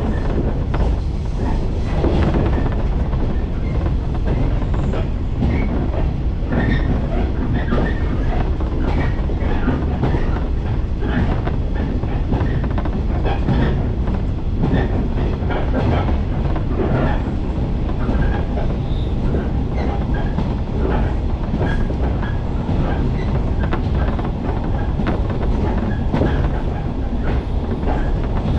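A passenger train running at speed, heard from inside the carriage: a steady low rumble of wheels on the rails with frequent irregular clicks and rattles.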